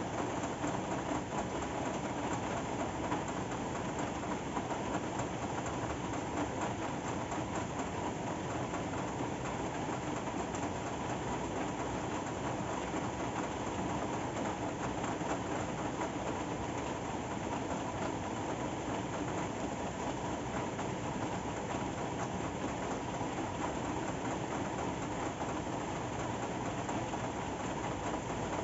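Steady rain falling, an even, unchanging wash of noise with a dense patter of drops.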